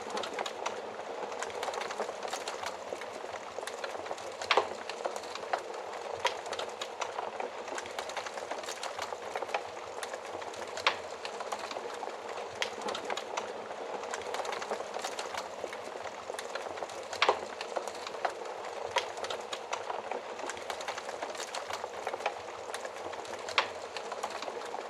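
Wood fire crackling in an oven: a steady hiss of burning with many small irregular crackles and a few louder pops.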